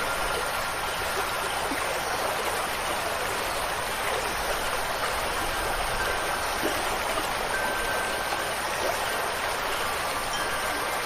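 Steady rushing water, an even hiss of flowing water without a break. A few faint, brief high ringing tones sit over it, from wind chimes.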